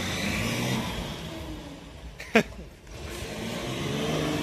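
Car engine revving as the car pulls away and drives off, its pitch rising and falling. About halfway through there is a sharp, loud whine that falls quickly in pitch.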